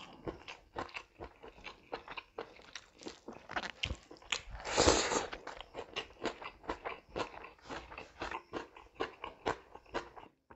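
Close-miked chewing and biting of food eaten by hand, with many small wet clicks and crunches. There is one louder, longer burst of mouth noise about five seconds in.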